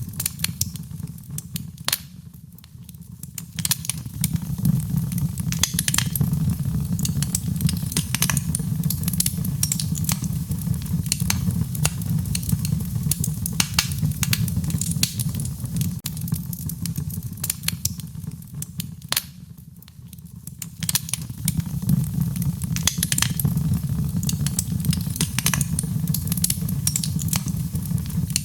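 Wood fire crackling, with frequent sharp pops and snaps over a steady low rumble of burning. It goes briefly quieter twice, a couple of seconds in and again about two-thirds of the way through.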